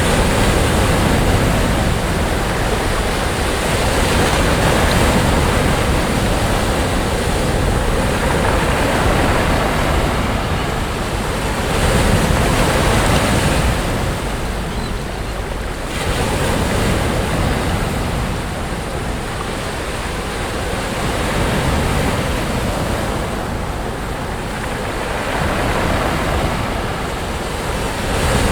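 Sea waves breaking and washing up a sandy beach, a steady surf that swells and eases every few seconds, with wind rumbling on the microphone.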